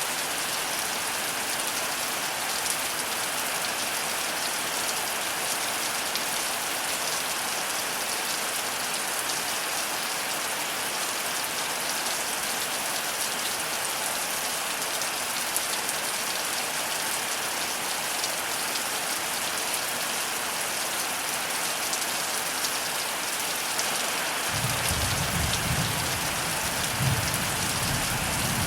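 Heavy rain falling steadily: a dense hiss with sharp drop impacts. Near the end a low rumble of thunder comes in for about four seconds.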